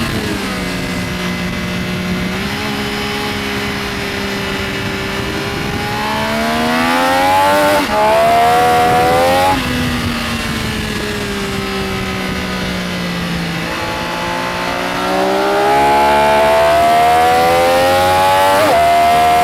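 Benelli Tornado Tre 900's inline-three engine under hard acceleration, its pitch rising with a quick upshift about eight seconds in, then dropping as the throttle closes, and climbing again with another upshift near the end.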